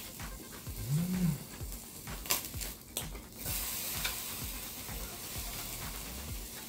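Beef slices sizzling on a charcoal tabletop grill, the hiss growing louder and steadier about halfway through as the meat is turned with chopsticks. A couple of sharp clicks come a little before that.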